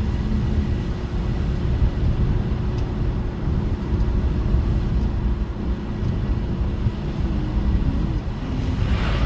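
Car driving, heard from inside the cabin: a steady low rumble of engine and road noise with a faint steady hum. A brief hiss comes near the end.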